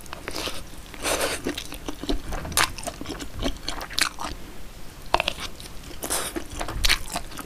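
Close-up chewing and mouth sounds of a person eating a mouthful of cheesy corn, with irregular clicks and soft crunches.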